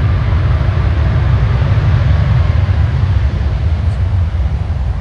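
Jet engines of a Boeing 787 coming in to land: a loud, deep, steady rumble with a faint whine above it, easing off slightly near the end.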